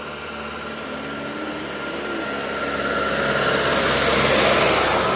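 A truck passing close by: its engine and road noise grow steadily louder to a peak about four seconds in, then begin to ease off. A steady high whine runs underneath.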